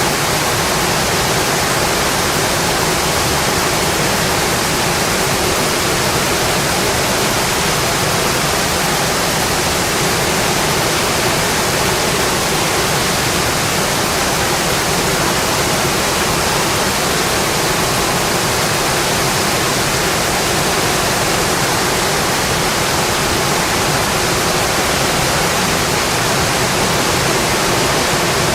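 Steady rainfall, an even hiss that does not change, with no single drops standing out.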